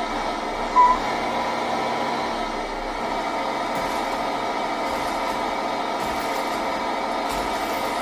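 Simulated truck engine sound from a Tamiya MFC-03 sound unit, running steadily through the model truck's small speaker, thin and without deep bass. A short, sharp beep sounds about a second in.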